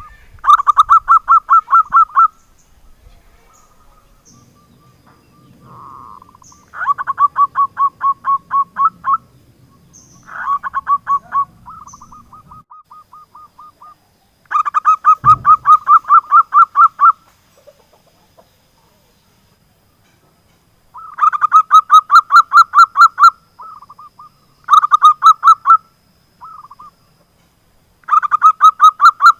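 Zebra dove (perkutut) calling: repeated bursts of rapid staccato cooing notes, about seven notes a second. Each burst lasts one to three seconds, with short pauses between bursts.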